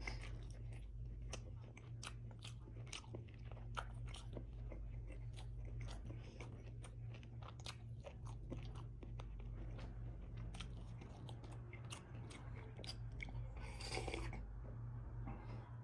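Close-up chewing of beef ribs and rice, with many small wet mouth clicks and smacks. About fourteen seconds in comes a short slurp from a small bowl.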